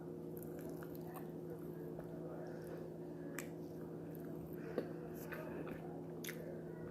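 Close-up chewing of tender steak: soft, wet mouth sounds with a few small clicks, over a steady low electrical hum.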